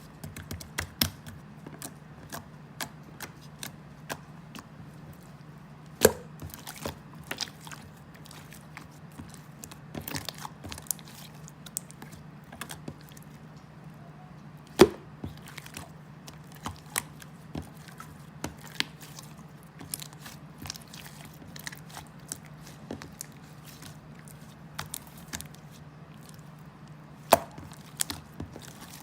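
Close-miked eating: crunchy bites and chewing, a steady scatter of small crunches and clicks with three louder snaps, over a steady low hum.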